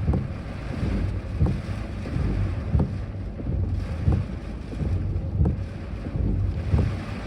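Typhoon wind gusting hard against the microphone as a low, buffeting rumble, with a short knock about every second and a half.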